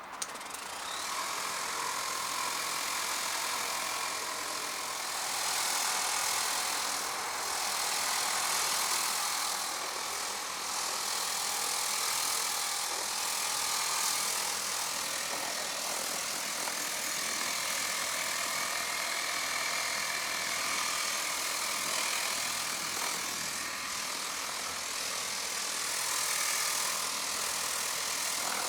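Lippert Power Pro Max 40-volt battery-powered portable pressure washer running and spraying water, a steady hiss of spray over a faint pump whine, starting with a click.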